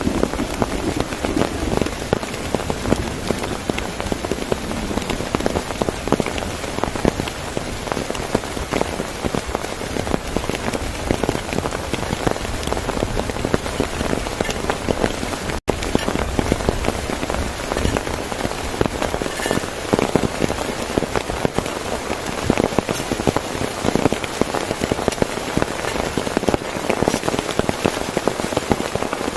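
Heavy rain drumming steadily on a tent, a dense patter of countless drops. It cuts out for an instant about halfway through.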